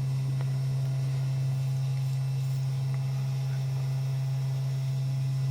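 Mini CNC router engraving with a V-groove bit: a steady hum from its running spindle motor, with faint higher whining tones above it.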